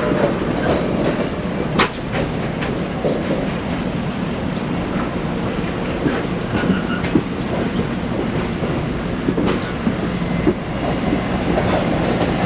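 Railroad cars rolling along the track: a steady rumble with wheels clicking over the rail joints.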